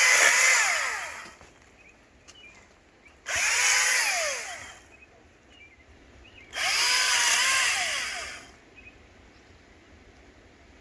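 Echo DCS-2500T 56V battery electric chainsaw revved three times. On each trigger pull the motor and chain wind up in pitch, hold briefly, then spin down, with a pause between each.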